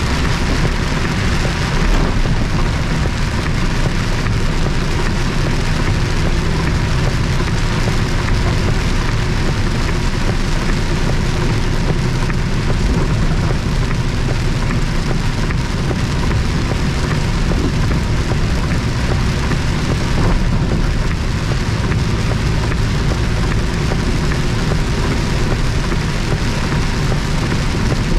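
Heard from inside a moving truck's cab in heavy rain: steady rain hitting the cab and windshield over the engine and road noise.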